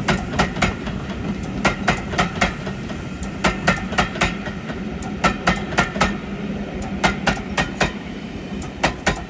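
Train wheels clicking over rail joints as carriages pass: sharp clicks in quick pairs, with a steady rumble underneath.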